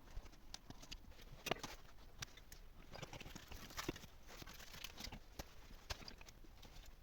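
Faint, irregular knocks and clicks, a few a second, with a couple of sharper ones.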